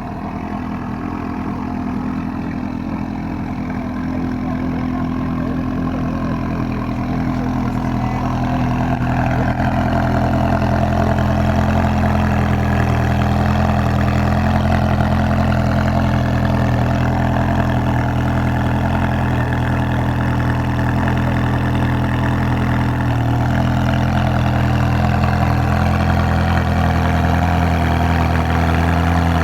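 Ferrari 360 Challenge Stradale's 3.6-litre V8 idling steadily, growing a little louder over the first ten seconds and then holding even.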